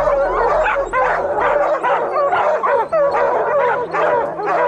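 A pack of bear hounds baying and barking together, many voices overlapping without a break, as hounds do when they have a bear up a tree.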